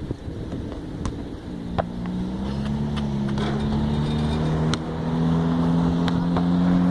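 A motor vehicle engine running with a steady hum that slowly grows louder, with a few sharp thuds of a basketball bouncing on the asphalt court.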